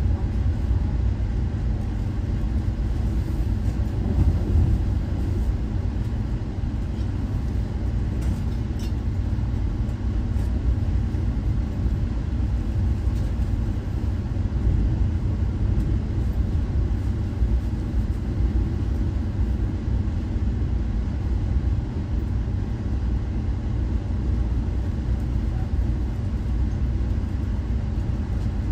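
Steady low rumble of an Amtrak Crescent passenger train in motion, with a few faint clicks about eight to ten seconds in.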